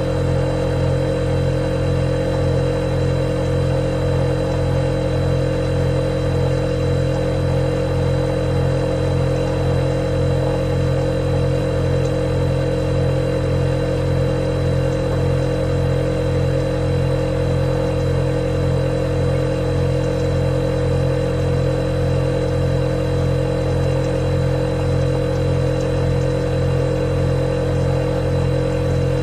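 Refrigerator running with a steady, unchanging hum, several constant tones layered in it and a faint high whine above.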